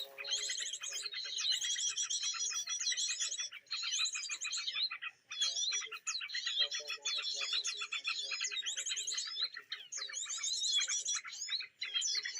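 Dense, rapid bird chirping and trills in phrases a few seconds long with brief breaks between them: a bird-call lure recording played from an MP3 player to draw in red-headed prenjak birds.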